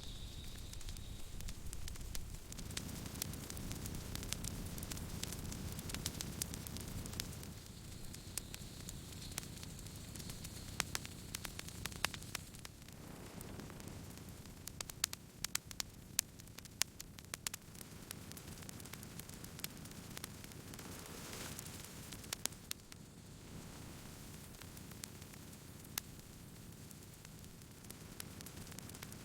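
Campfire burning, the wood crackling with irregular sharp pops and snaps over a low steady rumble of flames; the pops come thickest about halfway through.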